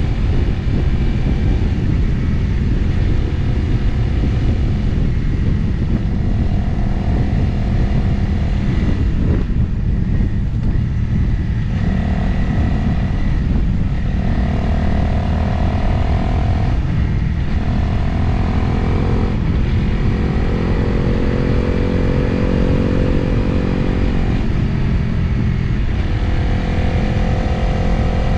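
Motorcycle engine running on the road with heavy wind noise on the microphone. Through the middle the engine note breaks off briefly several times and climbs again after each break, as with gear changes.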